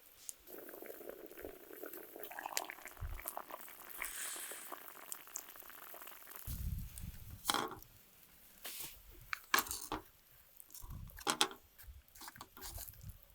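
Food simmering in a pot over a campfire, a soft steady bubbling, with scattered sharp clicks and a few low knocks of handling from about halfway through.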